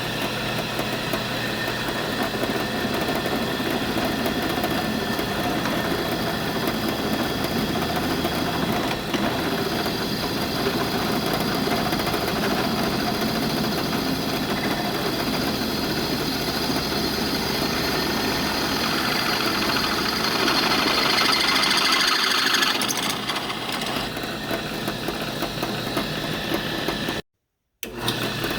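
A power tool running steadily as the slots are cut in the engine mount plate, getting louder and harsher about twenty seconds in.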